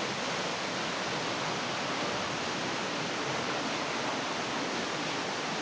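Steady, even rush of water from a small waterfall falling into a rock pool.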